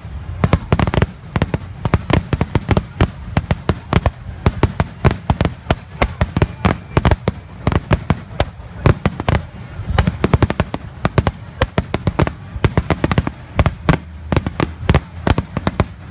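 Aerial fireworks going off in rapid, irregular succession, with sharp bangs and cracks several times a second over a continuous low rumble.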